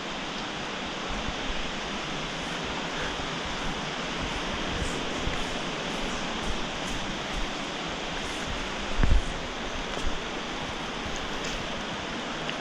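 Steady rushing of flowing water, with a single low thump about nine seconds in.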